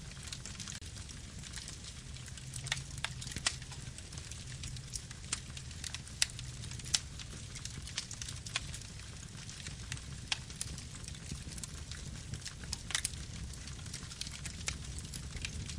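Campfire burning: a steady low rumble of flame with irregular sharp crackles and pops of burning wood.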